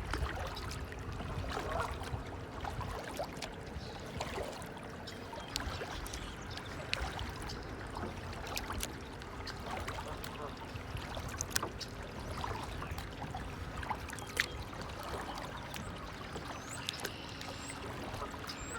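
Water trickling and lapping steadily, with many small sharp splashes and drips scattered throughout.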